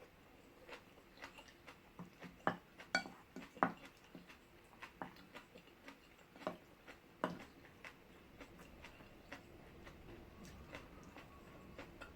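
Faint, scattered clinks and taps of a spoon against a bowl, one of them ringing briefly, with the loudest few coming in the first four seconds and two more a few seconds later.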